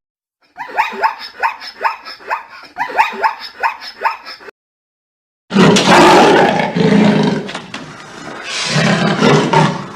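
Animal calls from two separate clips: first a quick run of short calls, each falling in pitch, about three a second; then, after a second's silence, a loud, rough roar that swells and fades several times.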